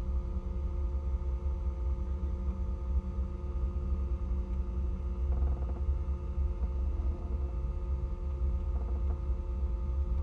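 Rally car engine idling steadily, heard from inside the cabin as a low, even rumble.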